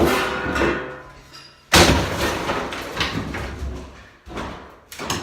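Heavy banging and crashing of interior demolition work: a loud impact at the start and a louder one just under two seconds in, each trailing off, followed by smaller knocks.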